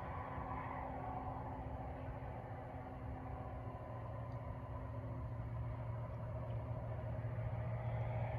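Road traffic: a steady vehicle engine hum with tyre noise, growing louder toward the end as a vehicle comes closer.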